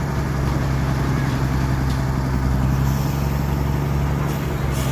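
Truck engine running steadily at idle, with a brief click near the end.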